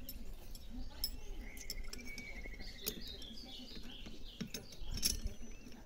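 Small birds chirping, with a short trill about two seconds in followed by a run of higher chirps. A few light clicks are heard alongside.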